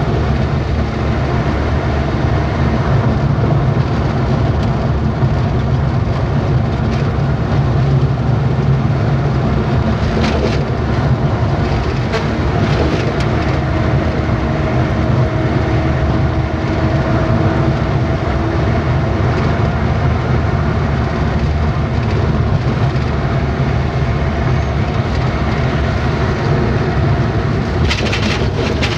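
Truck driving along a road: a steady low engine and tyre rumble with a few short rattles and knocks.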